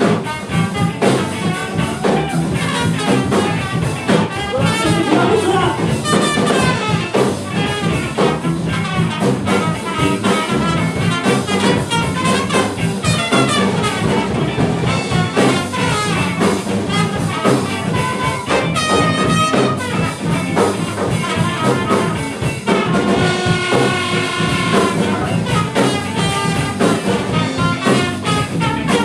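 Live band playing a funk number: drums, bass and guitar with a brass section of trumpet, trombone and saxophone playing lines and held chords.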